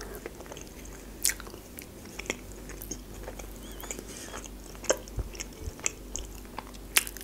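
Close-miked chewing of a mouthful of baked mussels, with a handful of sharp clicks scattered through it.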